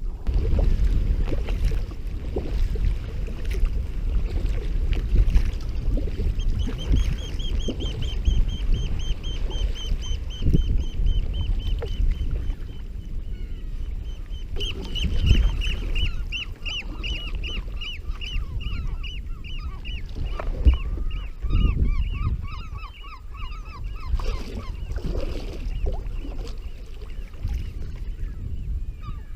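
Birds calling in a fast run of repeated shrill notes, about three a second, joined about halfway through by a second, lower run of notes. Low wind and water rumble runs underneath.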